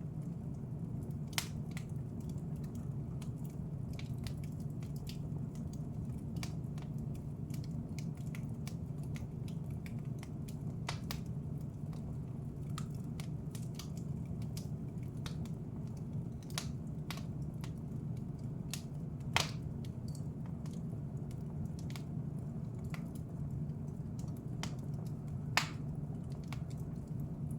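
Wood fire in a fireplace crackling: a steady low rumble of flame with many scattered sharp pops and crackles, a few louder pops standing out, one about a second in and two in the second half.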